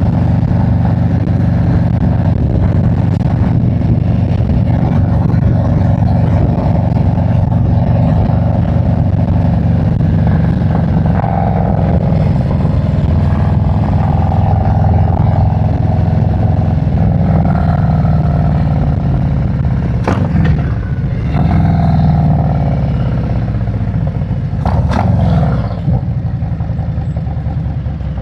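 Harley-Davidson V-twin motorcycle engine running on the road at a steady pace. Its pitch falls and rises again about twenty seconds in and once more near the end as the bike slows and picks up, with a sharp click at each change.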